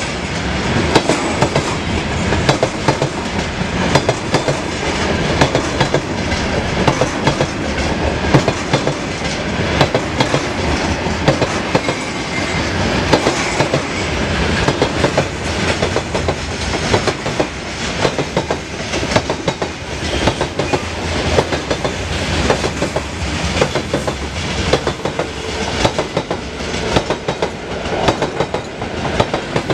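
Freight train wagons rolling past at speed: flatcars carrying tank containers, then covered hopper cars. The wheels make a dense, steady clickety-clack and rumble on the rails.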